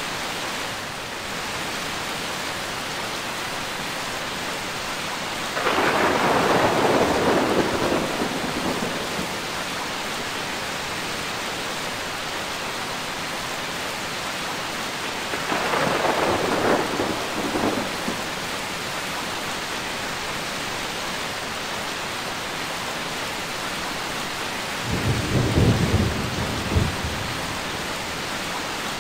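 Steady heavy rain with three rolls of thunder rising out of it, about six, sixteen and twenty-five seconds in. The last roll is the deepest.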